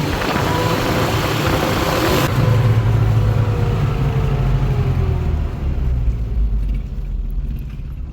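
A motor vehicle's engine running as it drives off, a low rumble with a slowly falling pitch that fades away over the last couple of seconds. A high hiss cuts off suddenly about two seconds in.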